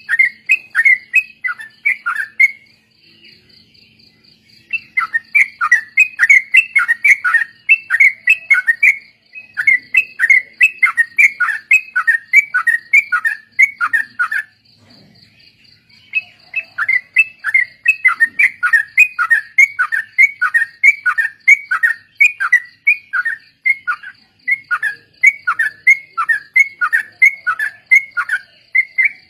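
Yellow-vented bulbuls (trucuk) singing a rapid chattering run of short falling notes, about four a second. The runs come in long phrases broken by pauses of a second or two. A faint, steady, high pulsing tone runs underneath.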